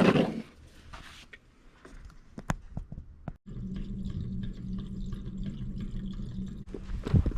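Water being poured to test a newly installed condensate drain line and auxiliary pan float switch. A steady low hum takes over about halfway through.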